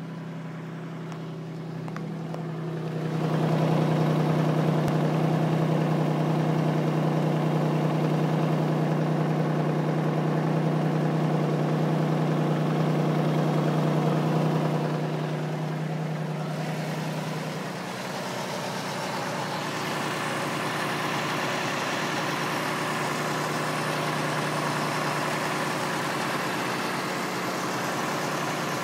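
Infiniti G35 coupe's 3.5-litre V6 idling, with a steady hum and a noise that the owner thinks comes from the aftermarket clutch and flywheel and the catalytic converter. It grows louder a few seconds in and softens a little past halfway.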